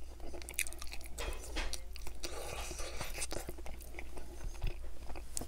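Close-miked chewing of saucy rib meat, with irregular mouth clicks and smacks.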